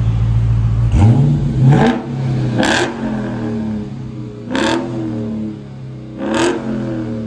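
Car engine idling, then revved up about a second in, followed by three sharp rev blips about two seconds apart, each dropping back toward idle.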